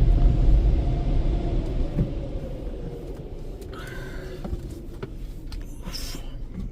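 PDQ Max Air car wash dryer blowers heard from inside the car, a loud low rumble that winds down and fades over the first few seconds as the drying cycle ends, leaving a quieter background.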